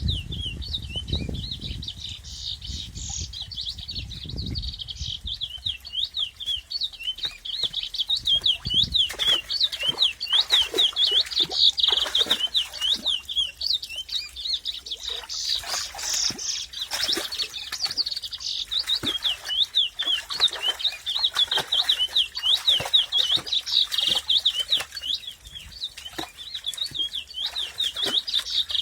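Many small birds chirping steadily in a fast, unbroken run of high notes, with short clicks and fluttering scuffles mixed in from about nine seconds in.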